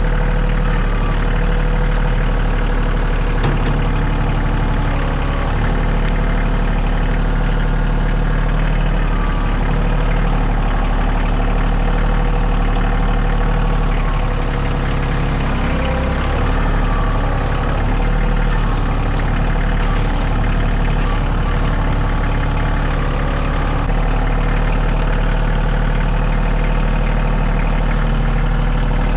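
Kioti CK2610 compact tractor's diesel engine running steadily at a constant speed.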